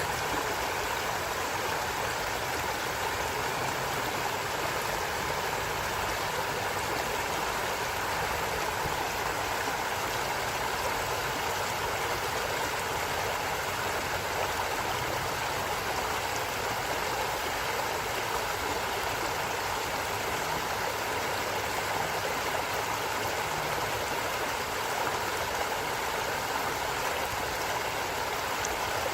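Stream water running steadily: an even, unbroken rush of flowing water.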